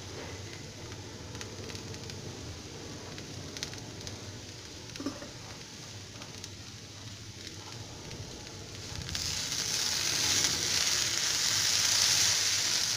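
Chopped okra frying in coconut oil in a kadai, sizzling steadily with a few faint clicks of stirring. About nine seconds in the sizzle turns suddenly much louder and brighter.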